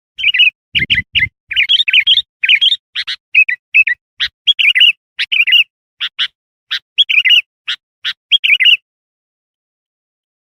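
Bulbul (kutilang) calling in a rapid run of short, loud, chattering chirps that stop a little before the end. A few low thumps sound about a second in.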